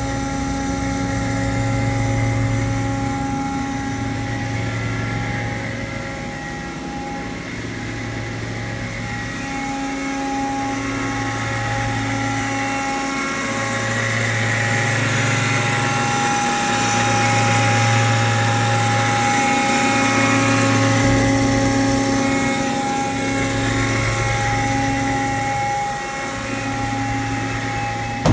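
Ingersoll Rand 10 hp electric rotary screw air compressor running steadily as it builds tank pressure, a steady machine drone with a low hum that swells and fades about every three seconds.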